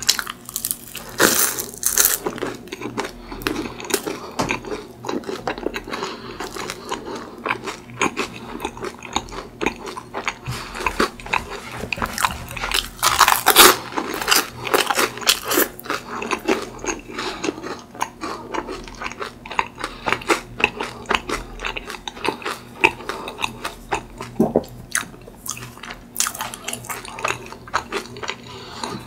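Close-miked crunching and chewing of crispy, chewy croffle (croissant dough pressed in a waffle iron), with a steady run of small crackles and louder crunchy bites about a second in and again around the middle.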